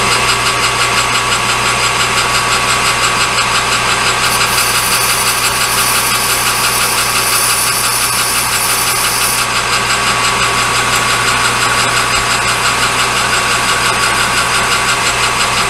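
A metalworking machine motor runs steadily with a constant hum and whine, having just been switched on. From about four to nine and a half seconds in, a higher hiss joins it, as of a cut being taken in aluminium stock.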